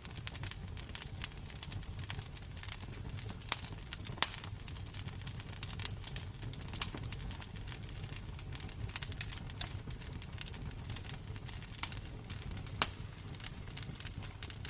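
Wood fire crackling in a fireplace: irregular sharp pops and snaps, a few louder ones standing out, over a steady low rumble.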